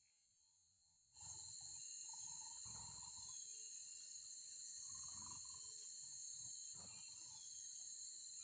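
Insects droning in a steady high-pitched buzz that starts suddenly about a second in, with intermittent low rumbles underneath.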